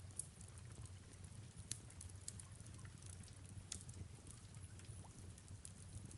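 Faint fireplace crackle: scattered sharp pops about every second or two over a low steady rumble, mixed with soft rain.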